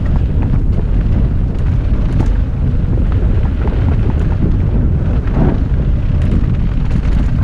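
Heavy wind rumble on the ride-along camera's microphone during a fast mountain-bike descent, with scattered clicks and rattles from the bike over rough trail.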